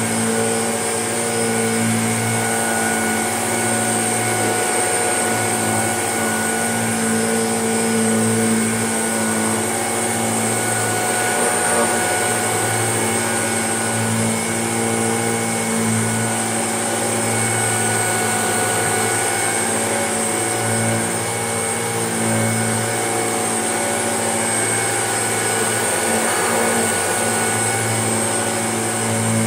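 Shark vacuum cleaner running steadily on carpet, its motor giving a constant whine with slight swells in level as it is pushed back and forth.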